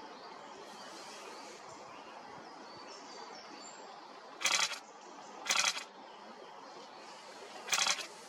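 Three short bursts of rapid camera shutter clicks: about halfway through, again a second later, and once more near the end. Between them is a steady outdoor background with a few faint, thin bird chirps.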